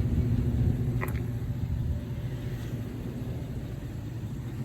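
Steady low rumble of a Micro Bird school bus engine idling, a little louder in the first two seconds and then easing off, with a faint click about a second in.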